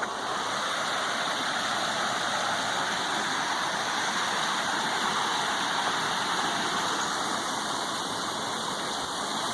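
A small creek running and splashing in a steady rush of flowing water.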